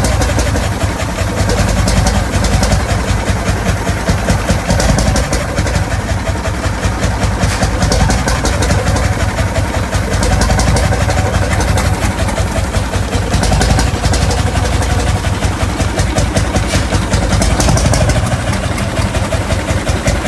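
Vintage stationary engine running steadily with an even, rapid knocking beat.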